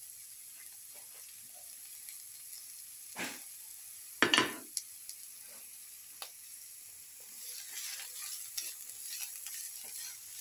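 Sliced shallots sizzling in hot oil in a pan, a steady crackling hiss with scattered small pops. About four seconds in there is one brief loud knock, with a smaller one just before it.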